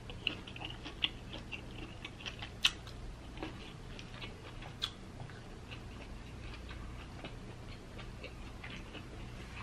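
Close-miked chewing of seafood: soft, wet mouth clicks and lip smacks at an irregular pace, with two sharper clicks about two and a half and five seconds in.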